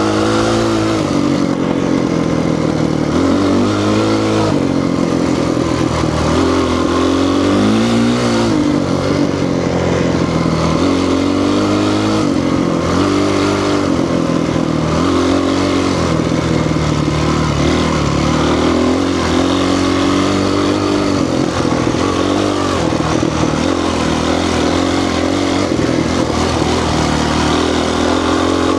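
Honda 450 dirt bike's single-cylinder four-stroke engine being ridden hard, revving up and dropping back again and again as the rider works the throttle and gears.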